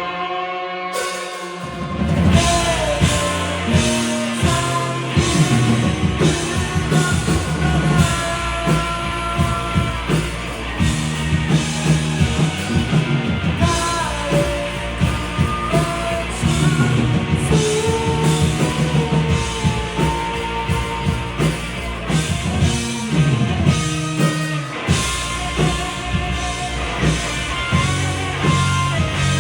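Rock band playing live, with drum kit, electric guitar and bass under a singing voice. The drums and bass drop out briefly at the start, and the full band comes back in about two seconds in.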